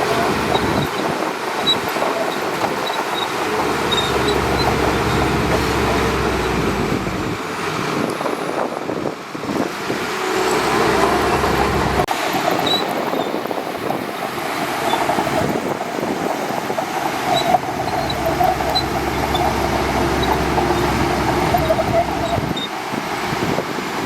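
Shantui DH17C2 bulldozer running at work, its engine and machinery making a steady mechanical noise. A deeper low rumble drops away about a third of the way in, returns about halfway through, and fades again near the end.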